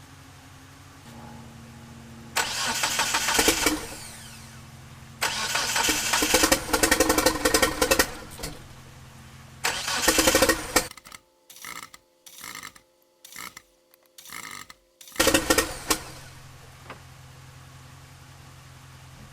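Starter cranking the 1997 Eclipse GSX's 4G63 turbo four-cylinder in four separate attempts, the longest about three seconds, with the engine failing to catch. A steady low hum runs between the attempts. It is a crank-no-start that the owner suspects is a timing problem with the cam angle sensor.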